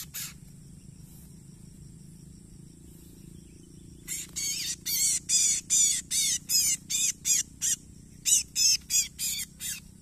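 A small bird chirping in a rapid series of short, repeated high notes, about three a second, starting about four seconds in.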